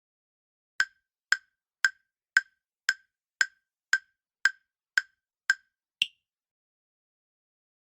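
Countdown timer sound effect: ten short ticks about two a second, then one final higher-pitched tick.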